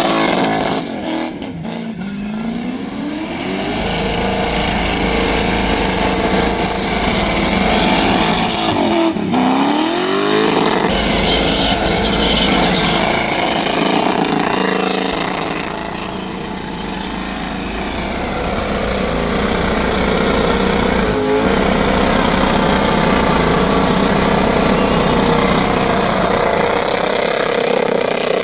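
V8 muscle car engine held at high revs during a burnout, its pitch climbing about a second in and again about nine seconds in, sagging around sixteen seconds, then rising and holding loud to the end.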